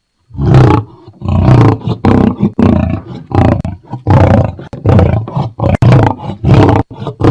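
Lion roaring: after a brief silence, a run of loud, deep grunting roars follows, about two a second. A few sharp clicks come near the end.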